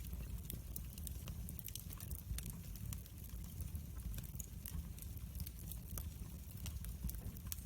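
Wood fire crackling: frequent small sharp pops and snaps over a steady low rumble of flame.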